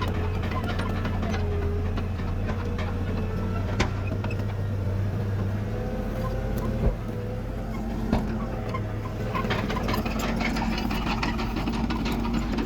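Diesel engine of a Komatsu D31PX bulldozer running steadily, its low hum easing about six seconds in, with a few sharp knocks, three of them standing out.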